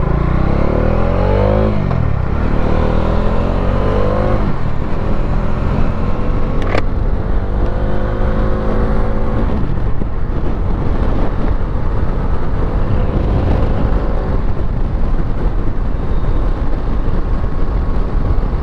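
Motorcycle engine pulling away and accelerating through the gears: its pitch rises and falls back at three upshifts in the first ten seconds, then it settles into steady cruising under constant wind noise. A single sharp click about seven seconds in.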